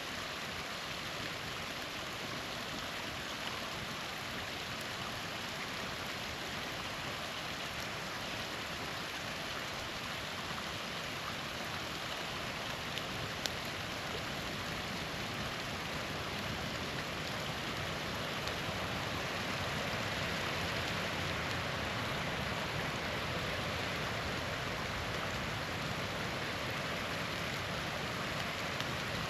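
Small waterfall splashing and rushing steadily, a little louder later on, with a couple of faint sharp pops from a campfire burning close by.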